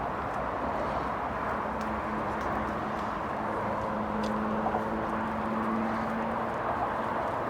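Steady engine noise with a constant outdoor background. A low, even hum grows louder about two seconds in and fades about six seconds in, as if an engine is passing.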